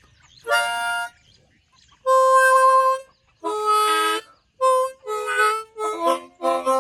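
Harmonica played in short phrases of notes and chords: a brief note, then a long held note about two seconds in, followed by a quicker run of short notes toward the end.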